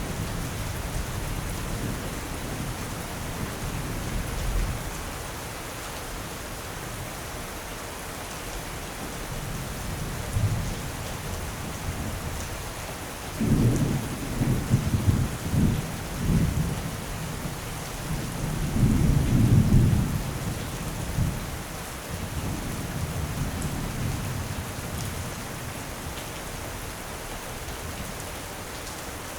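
Steady heavy rain with rolling thunder: low rumbles swell several times, loudest about halfway through and again a few seconds later, then die back under the constant hiss of rain.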